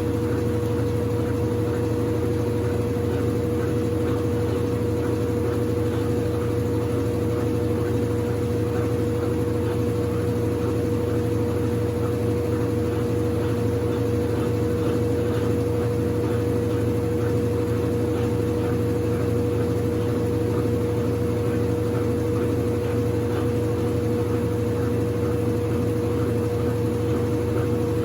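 Consul CWC08 8 kg washing machine running steadily: an even motor hum with a constant mid-pitched whine, unchanging throughout.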